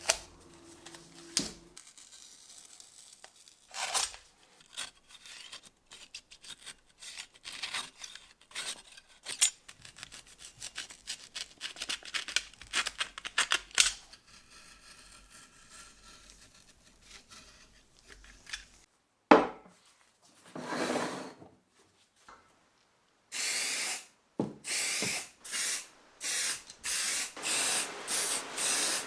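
Hand work on the vise's metal: a long run of short rubbing and scraping strokes, with a sharp click about two thirds of the way through. Near the end comes a series of short hissing spray bursts, about one a second.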